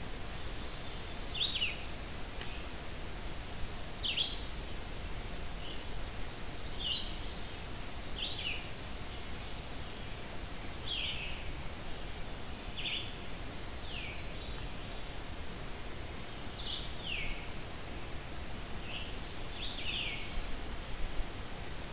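A songbird singing short, downward-slurred phrases, about one every second or so, over a steady low background hiss.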